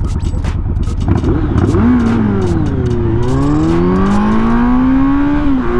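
Kawasaki Z900's inline-four engine accelerating hard from a standstill in a 0 to 60 run: it revs up in long rising sweeps, dipping about three seconds in and dropping sharply near the end as it shifts up, then climbing again.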